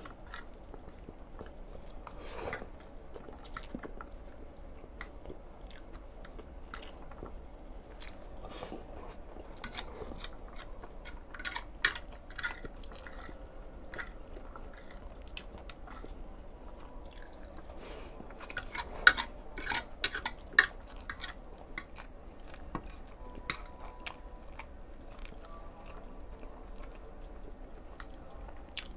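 Close-miked chewing of Chapagetti black bean noodles, wet mouth clicks and smacks, with a fork scraping and tapping on a ceramic plate; the sharpest clicks bunch up about 12 s in and again around 19 to 21 s.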